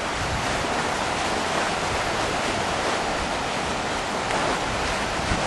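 Whitewater of the Kern River rushing through rapids, a steady, even rush of water.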